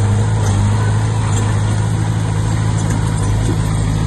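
Bulldozer's diesel engine running steadily with a constant low drone.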